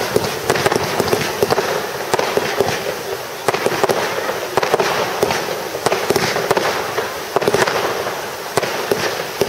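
Fireworks display going off: a dense, continuous crackle and hiss with many sharp pops from bursting effects throughout.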